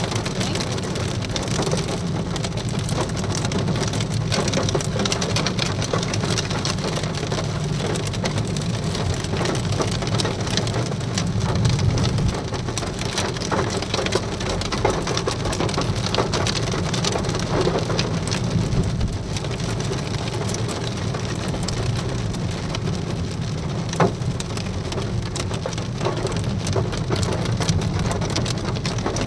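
Hail and heavy rain coming down hard: a steady rush of rain dotted throughout with many sharp ticks of hailstones striking, one louder knock near the end.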